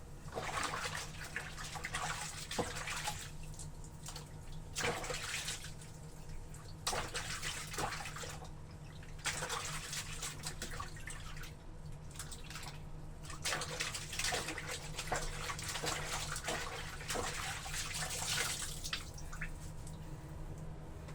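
Water sloshing and splashing as laundry is worked in a tub of water, in irregular bouts a second or two long, over a steady low hum.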